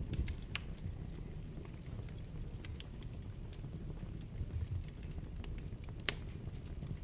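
Wood fire burning in a fireplace: a steady low rumble of the flames with scattered crackles and pops, the loudest pop just after six seconds in.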